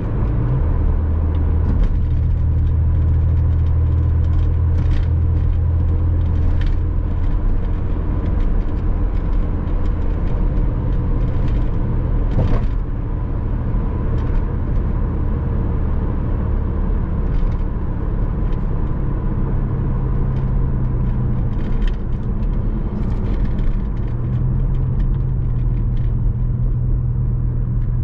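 Porsche Boxster 986 flat-six engine running while driving, a steady low drone under road and tyre noise. The engine note drops about seven seconds in and rises again twice in the second half as the revs change. Faint clicks and knocks are scattered through it.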